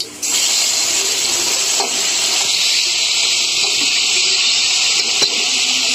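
Wet ground masala paste hitting hot mustard oil in a kadhai: a loud, steady sizzling hiss that starts suddenly about a quarter second in as the paste goes into the oil and starts to fry.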